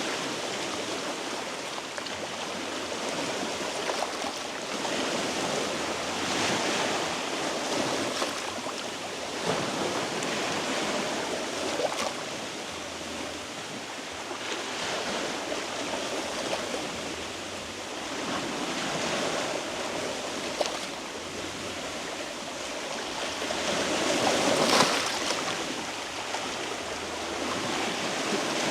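Sea waves washing against rocky shore, swelling and falling back every few seconds, the biggest surge near the end, with an occasional sharp click.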